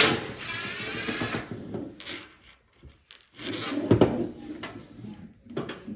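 Plastic bottom panel of a front-loading washing machine being pried and pulled off: a scraping rasp at the start, then more rattling with a sharp knock about four seconds in and a few clicks near the end.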